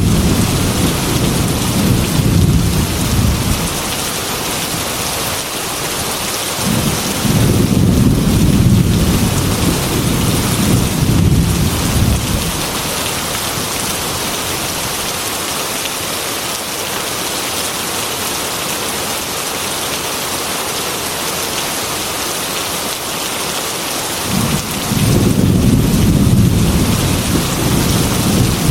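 Heavy rain falling steadily, with deep rolling thunder rumbles. One rumble dies away in the first few seconds, another rolls from about seven to twelve seconds in, and a third builds about 25 seconds in.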